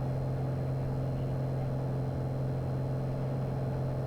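Light aircraft's piston engine and propeller droning steadily, heard in the cabin during the climb to cruise altitude, with a strong, even low hum.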